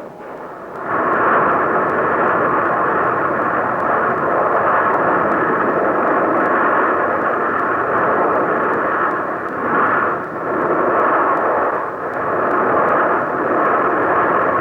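Steady rushing roar of Kilauea's erupting vent, starting about a second in, with a few brief swells and dips later on. It is heard through the narrow, hissy soundtrack of an old film.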